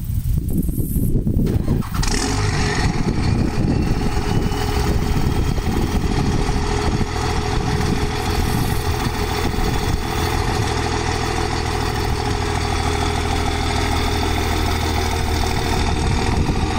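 Truck engine cutting in abruptly about two seconds in, then running at a steady idle.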